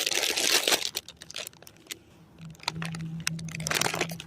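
Plastic snack packaging crinkling and crackling as it is handled, in irregular bursts, heaviest in the first second and again near the end.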